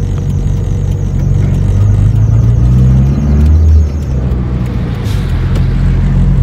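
Mitsubishi Lancer's engine running under way, a loud low drone that climbs for a couple of seconds and then drops off sharply about four seconds in.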